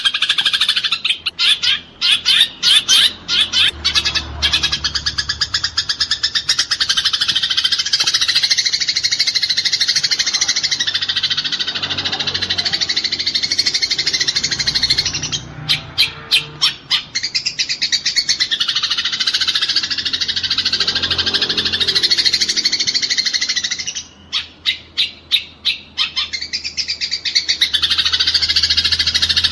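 Eurasian tree sparrows chattering in a fight: dense, continuous harsh chirping, broken by runs of rapid separate chirps about a second in, about halfway through and near the end.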